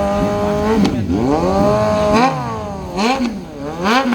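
Motorcycle engine revved hard over and over. Its pitch climbs, holds briefly and drops back, four times in a row.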